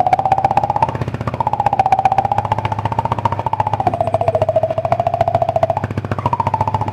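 A person blowing into a Yamaha Vixion motorcycle's exhaust pipe, making a buzzing tone whose pitch wavers up and down. It breaks off briefly twice, about a second in and again near the end.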